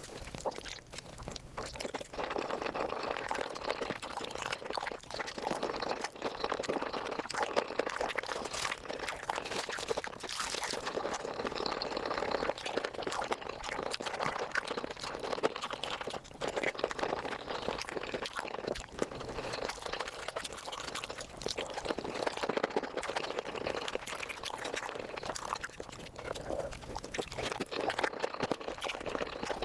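Close-miked eating of chicken feet, a continuous dense run of wet crunching, crackling and chewing sounds, sped up.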